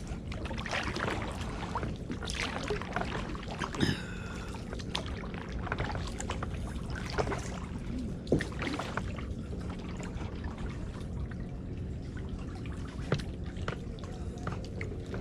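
Kayak paddles dipping into the water, with trickling and dripping from the blades and occasional light knocks.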